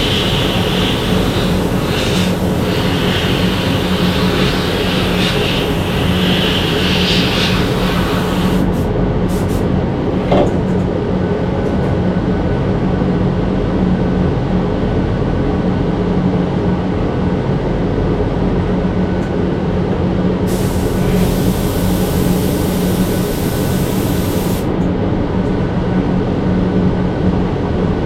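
Steady machine drone with a low hum throughout, overlaid by two stretches of high compressed-air hiss, one in the first eight seconds and another about three-quarters of the way through, typical of a spray gun applying Cerakote.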